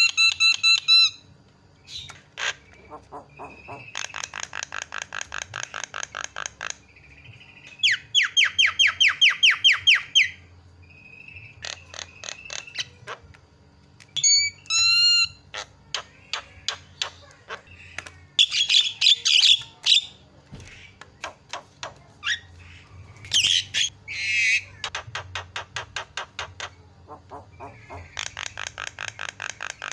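Javan myna (jalak kebo) calling loudly in a varied string of bursts: fast rattling trills a few seconds long, harsh chatter and clear whistled notes.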